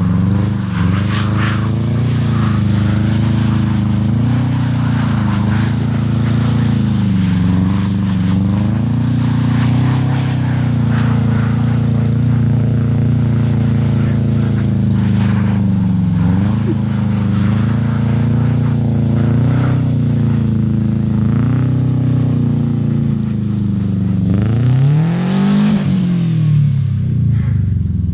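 Subaru flat-four boxer engine and exhaust, revving up and down again and again while the car is drifted in snow, with one higher rev near the end.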